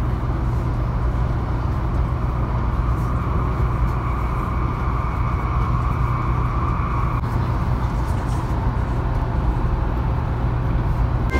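Taiwan High Speed Rail train heard from inside the passenger car: a steady low running rumble as it approaches Banqiao station. A whine joins about three seconds in and cuts off suddenly about seven seconds in.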